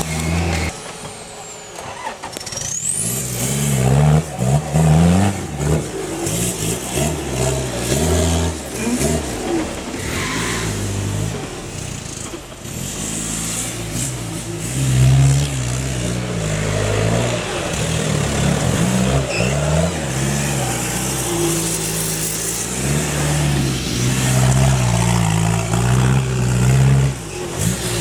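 Off-road competition vehicle's engine revving up and easing off again and again as it works over rough ground, with a few sharp knocks.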